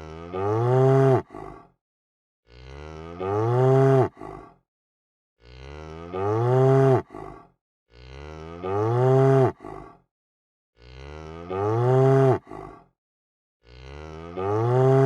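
Cow mooing, six long moos about every three seconds, each a low call that swells and drops in pitch at the end, with silence between. The calls are so alike that they sound like one moo looped.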